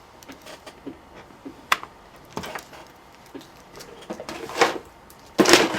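Scattered light clicks, taps and rustling of small objects being handled on a workbench, with a louder burst of handling noise near the end.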